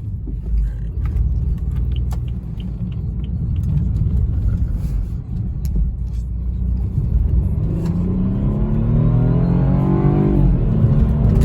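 Car engine and road rumble at cruising speed, then about two-thirds of the way in the engine note climbs steadily under full-throttle acceleration, drops briefly at a gear change near the end and starts climbing again.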